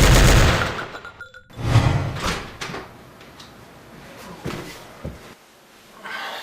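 A loud thud that fades over about a second, then a second thud and a few lighter knocks, door- or cupboard-like impacts.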